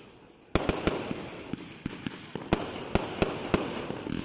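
Fireworks going off: a sudden volley of sharp bangs and crackling begins about half a second in, with irregular reports that fade away near the end.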